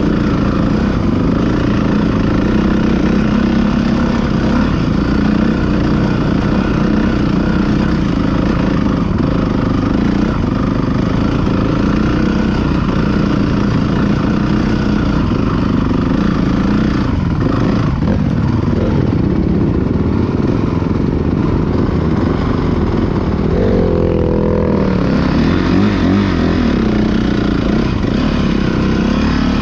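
Motocross dirt bike engines running and revving, with the engine pitch wavering up and down about three-quarters of the way through.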